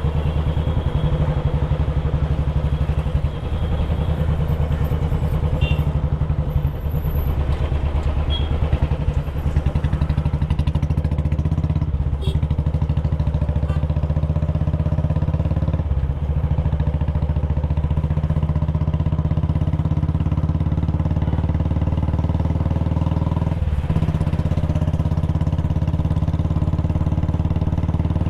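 Royal Enfield Bullet Classic 350's single-cylinder four-stroke engine and exhaust running steadily under way, a dense low thumping beat that dips briefly a few times.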